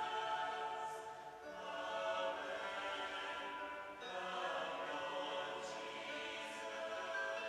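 Slow choral music: voices singing long held notes that move to a new chord every second or two.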